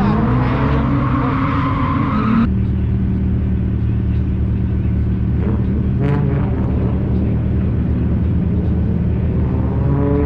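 Car engine running loud and steady, its pitch swinging up and down in the first two and a half seconds before the sound changes abruptly to a steady drone.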